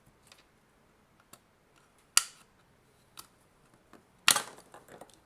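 Sharp clicks and snaps of a tool working into the crack in a Nintendo Switch AC adapter's sealed plastic case. There are two loud snaps, one about two seconds in and one about four seconds in, with lighter ticks between them.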